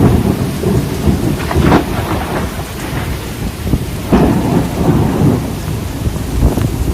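Severe thunderstorm: heavy rain and strong wind, with loud low rumbling that swells and eases unevenly throughout.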